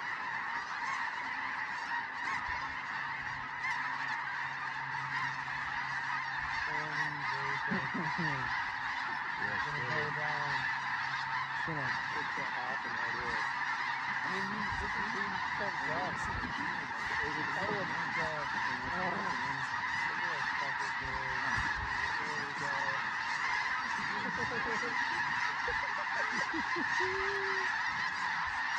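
A big flock of snow geese calling overhead: a dense, continuous chorus of overlapping high-pitched honks with no break.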